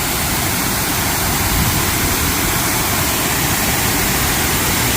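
Small woodland waterfall running full, a loud, steady rush of falling water.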